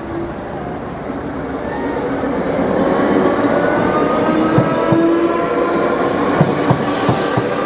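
South Western Railway Class 458 electric multiple unit going over the level crossing, growing louder from about a second in. Its electric traction motors give several steady whining tones, and its wheels click over the rail joints from about halfway through.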